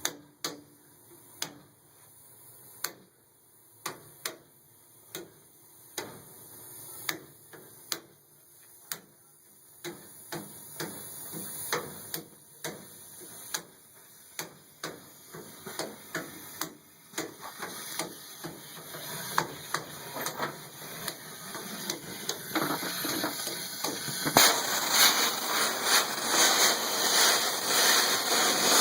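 Furnace making a repeated sharp clicking, roughly one to two clicks a second, over a rushing hiss of air that builds steadily and jumps louder about 24 seconds in.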